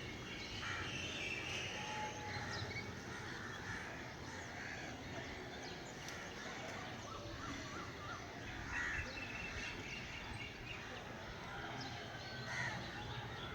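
Outdoor birds calling, with many short scattered calls and chirps, over a steady low background rumble.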